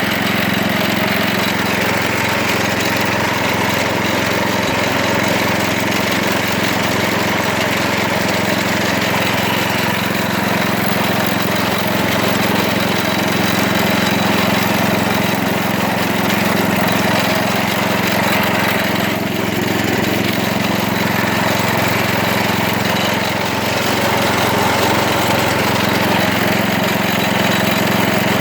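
A 1970s Wards garden tractor's 16 hp Briggs & Stratton engine running at a steady speed.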